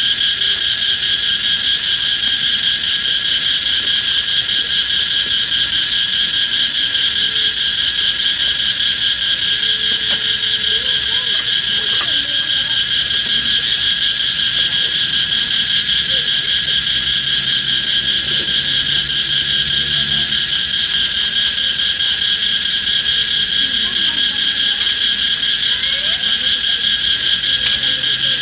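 Steady, loud chorus of insects, a dense high-pitched trilling that never lets up.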